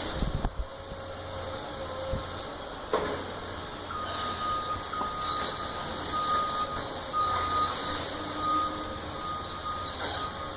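A heavy machine's back-up alarm beeping steadily, about one long beep a second, starting about four seconds in, over a running diesel engine. A few knocks of debris come in the first three seconds.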